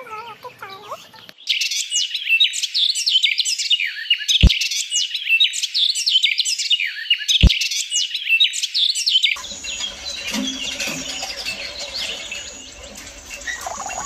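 Birds chirping and twittering in a dense stretch of quick, high calls that starts about a second and a half in and stops abruptly several seconds later, with two short clicks in between.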